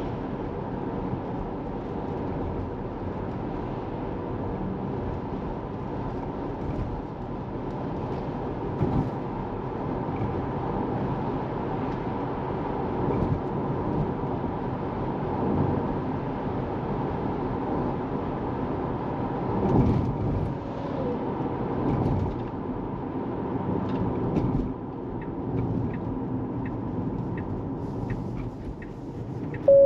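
Steady road and tyre noise from a Tesla Model 3 on the move, heard inside the cabin, with a faint steady whine. Near the end comes a run of evenly spaced light ticks, about two a second.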